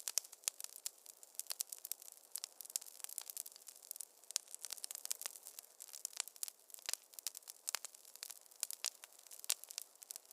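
Wood fire crackling in a fireplace: irregular sharp snaps and pops, several a second, over a faint hiss.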